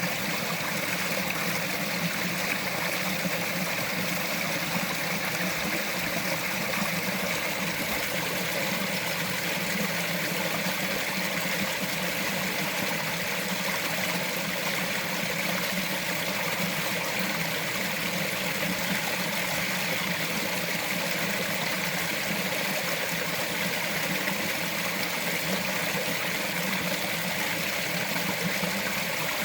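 Small forest stream running steadily over rocks, a continuous even rush and trickle of water.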